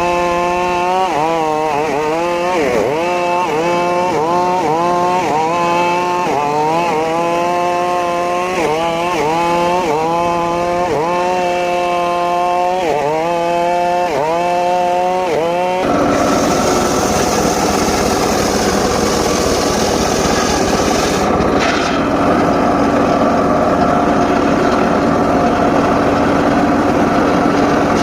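Homemade circular saw cutting mahogany: the blade's whine dips and recovers about once a second as it bites into the wood. About halfway through it turns to a steadier, noisier cutting sound.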